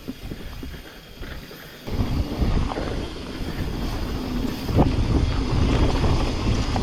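Mountain bike riding down a dirt trail: tyre noise, rattling knocks from the bike and wind buffeting on the camera microphone, getting suddenly louder about two seconds in.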